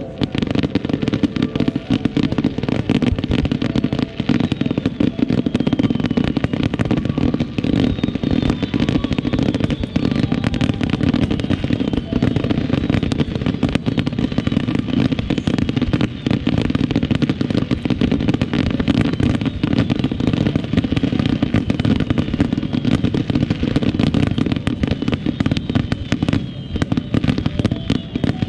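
Starmine fireworks barrage: a fast, unbroken volley of launches and bursts, dense cracks and booms with faint whistles over them.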